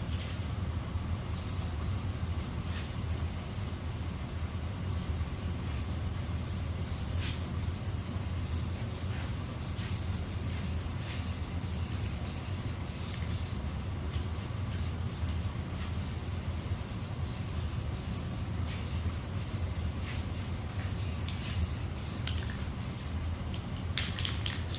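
Aerosol spray-paint can hissing as paint is sprayed in long passes, starting about a second in, with short breaks about five seconds in and again around fourteen to sixteen seconds in.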